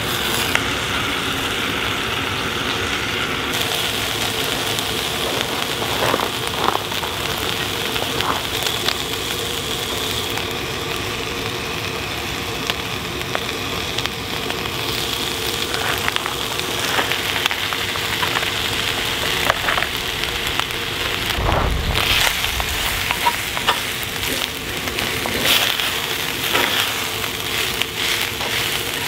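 Food sizzling in a pan over a campfire, a steady hiss with scattered crackles and pops, and one dull thump about two-thirds of the way through.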